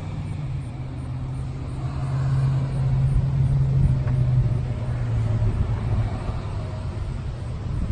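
A vehicle engine running with a low, steady hum. It grows louder about two seconds in and eases off again after about five seconds.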